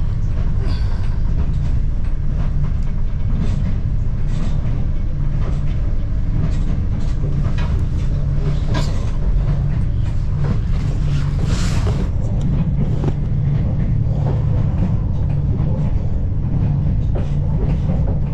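Inside a moving Standard Gauge Railway passenger carriage: the train runs with a steady deep rumble, and short clicks and knocks are scattered through it.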